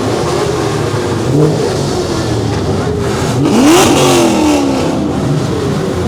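A vehicle engine revs once about three and a half seconds in, its pitch climbing sharply and then falling back, over the steady engine noise of the meet.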